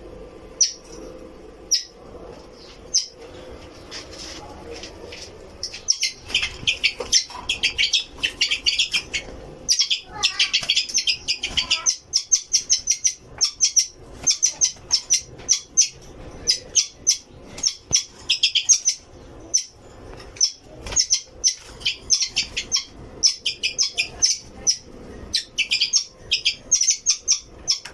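Small caged pet birds chirping: many quick, high chirps, a few scattered ones at first, then dense, continuous chatter from about six seconds in.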